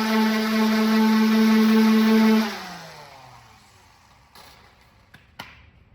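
Electric orbital sander running at a steady pitch, then switched off about two and a half seconds in, its pitch falling as it spins down. A few small clicks and knocks follow in the quiet.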